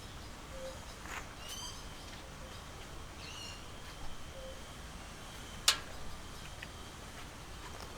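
Birds calling: two short chirping calls in the first half, over a steady low background noise. A single sharp click a little before six seconds in is the loudest sound.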